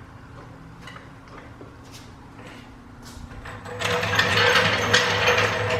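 A car jack lowering the car: faint clicks, then about four seconds in a loud, steady mechanical rattle with a hum as the car comes down.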